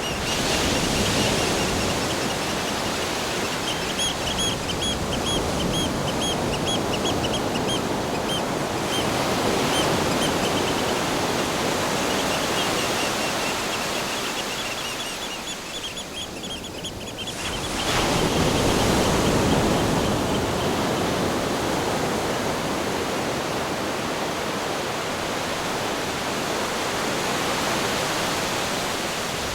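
Ocean surf: a continuous rushing wash of waves that swells and ebbs, surging loudest a little after halfway. Runs of rapid high chirps, several a second, sound over the waves in the first half.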